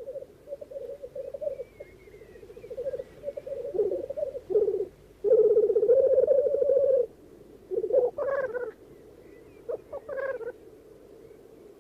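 Male black grouse at a lek giving their continuous bubbling coo, a low warbling sound that swells loudest for about two seconds just past the middle. Short, sharper calls break in twice near the end.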